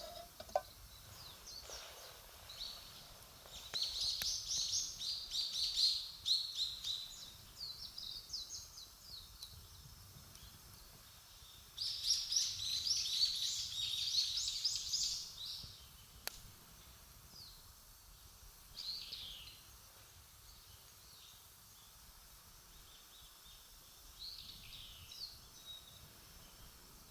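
A songbird singing outdoors in two long bouts of rapid, high chirping notes, with a few shorter calls later. A sharp pop or two from the burning wood of a campfire cuts in.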